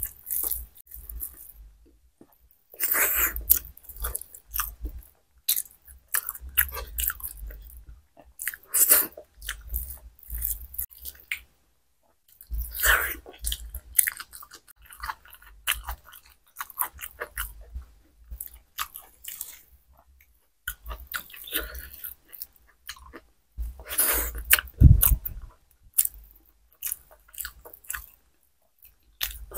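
Close-miked chewing and wet mouth sounds of someone eating khichuri and fried okra by hand, coming in irregular spells with short pauses between mouthfuls.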